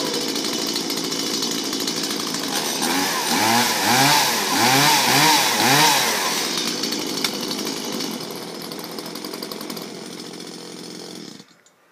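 Stihl MS170 two-stroke chainsaw running, its throttle blipped several times so the engine revs up and falls back repeatedly, then settling back to a steady run before the engine is switched off and stops abruptly near the end.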